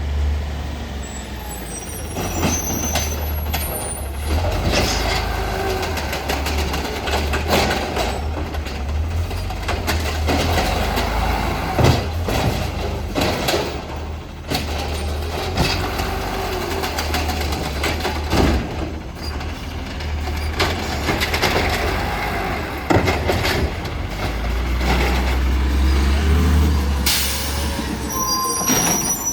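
Garbage truck collecting recycling: the diesel engine runs steadily under repeated clanks and bangs from the pickup. A burst of air hiss comes near the end.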